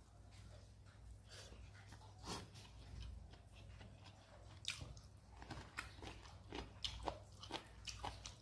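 Close-up eating sounds: chewing and crunching of dry-fried okra and bitter gourd with rice, heard as irregular crisp clicks that come thicker in the second half, over a steady low hum.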